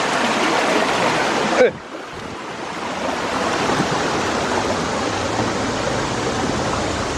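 Rushing river water: a loud, steady wash that drops suddenly about two seconds in, then slowly builds back.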